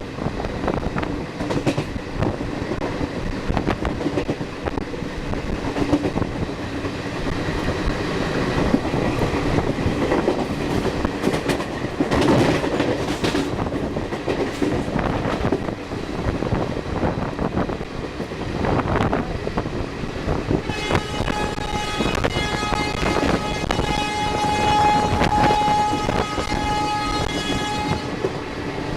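Superfast express train hauled by a WAP-4 electric locomotive rushing past at high speed, wheels clattering over the rail joints. About 21 seconds in, the locomotive's sustained, melodious horn sounds for about seven seconds, then stops.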